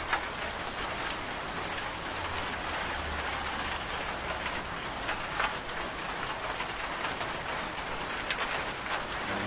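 Steady rain falling, a dense even hiss with scattered sharper drop taps.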